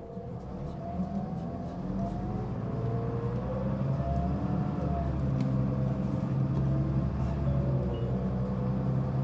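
Mitsubishi Fuso Aerostar city bus heard from inside, its diesel engine pulling harder and growing louder over the first few seconds, then running steadily under load. Whining tones that wander up and down sound above the engine: the abnormal noise this bus was known for.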